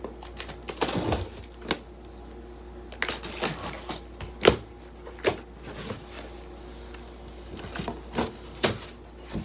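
Irregular knocks, clicks and rustles of a cardboard shipping box being opened and its packaging handled, with one sharper knock about halfway through.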